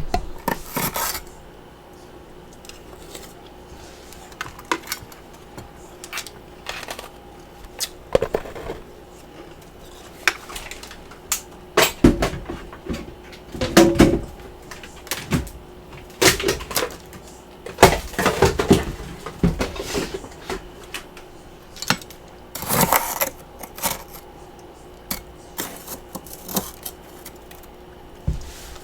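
Close-miked crunching of freezer frost and ice chunks: irregular bites and chews, with the loudest crunches in the middle, over a faint steady hum.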